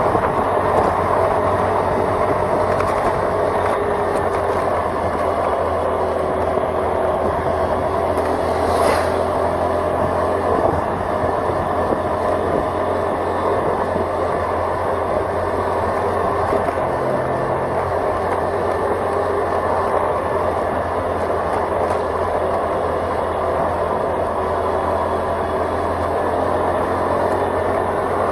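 Steady engine and road noise from a vehicle travelling along a road, with a brief high sweep of sound about nine seconds in.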